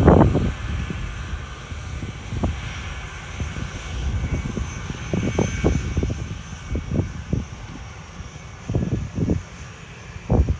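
Jet airliner's engines running with a steady high whine, under gusts of wind buffeting the microphone in low rumbles, the strongest right at the start.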